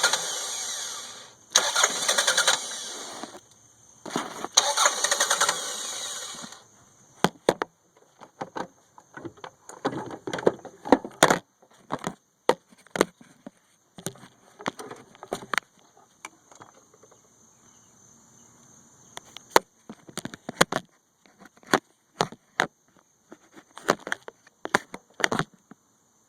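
1992 Toyota Camry four-cylinder engine cranked on the starter in three bursts of about two seconds each without settling into a steady run, then scattered sharp clicks and short knocks. The hard start is the sign of weak spark, which the owner traced to a corroded distributor cap and rotor.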